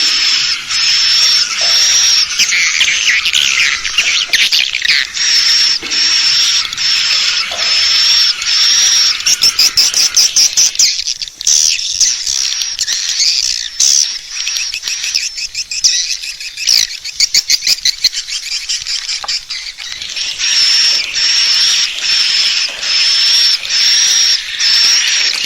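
Swiftlet lure call for a swiftlet house: a steady run of short, high chirps, about one and a half a second, with stretches of rapid clicking around the middle.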